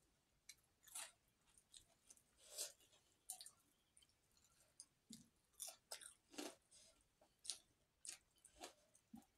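Faint, close-up chewing and mouth smacks of someone eating rice and fried fish by hand: a string of short, wet clicks and smacks at an irregular pace.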